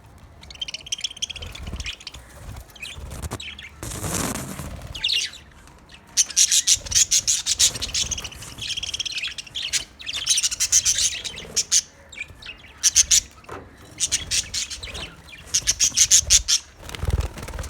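Budgerigars chirping and chattering in quick, repeated high calls, with a brief rustling noise about four seconds in.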